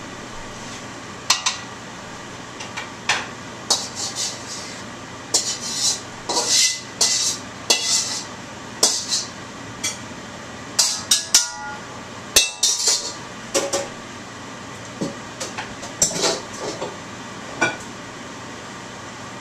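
Metal utensil clinking and scraping against a wok and serving plate as a stir-fry of shrimp and scallops is dished out: a long run of irregular clinks and short scrapes over a steady background hum.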